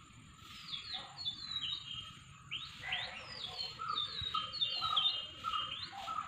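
Songbirds calling: a string of short, falling whistled chirps, repeated over and over, with some lower, shorter notes mixed in.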